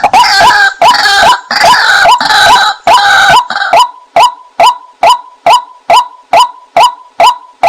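Female white-breasted waterhen calls, a decoy-call recording: a dense run of overlapping calls for the first few seconds, then short single notes repeated evenly about twice a second.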